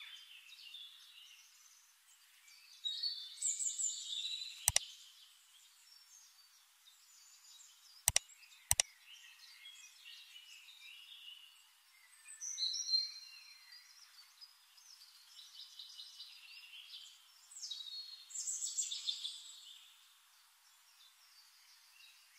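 Birds chirping and calling in scattered bursts, thin and high with nothing low underneath. Three sharp clicks cut through, one about 5 seconds in and two close together near 8 seconds.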